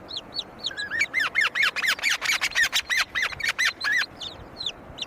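A bird calling in a rapid series of short, sharp chirps, several a second. The chirps build to a loud, dense run through the middle and then go on more softly near the end.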